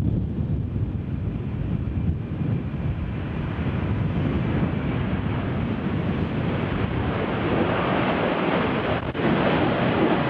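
Strong wind buffeting the microphone: a heavy rumbling rush with no steady tone, its hissing upper part growing stronger over the second half.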